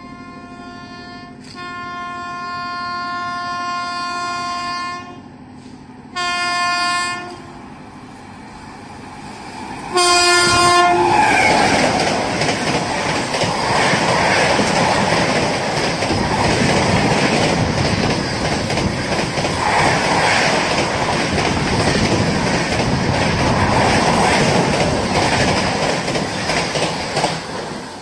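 WAP7 electric locomotive sounding its horn three times on approach: a long blast about a second and a half in, a short one around six seconds, and another as it arrives. The LHB express then rushes through at about 134 km/h, its wheels clattering over the rail joints for some fifteen seconds before the sound fades near the end.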